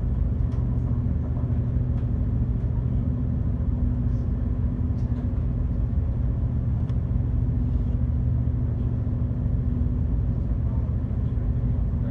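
Passenger ferry's engines running under way, a steady low drone with a constant hum that does not change.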